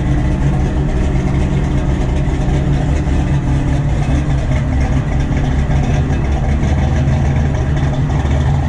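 A car engine idling steadily with a loud, low note while the car is backed out.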